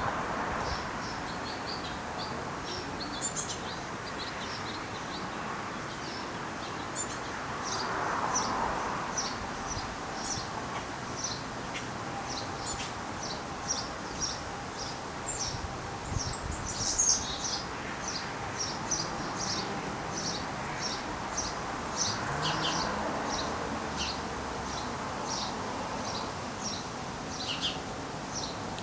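Small birds chirping steadily: a continuous string of short, high chirps, about two to three a second, over a soft rushing background that swells a few times.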